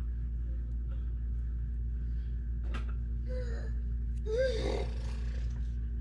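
A child makes two short non-word vocal sounds, the second louder and gliding up then down in pitch, over a steady low hum; a single click comes just before them.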